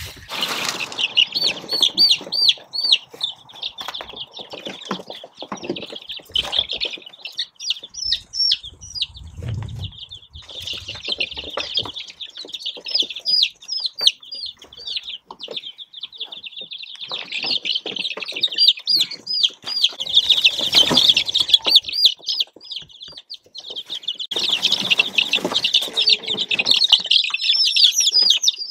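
A flock of young chicks peeping continuously, a dense chorus of short, high, arched peeps. Scattered knocks and rustles of handling run underneath.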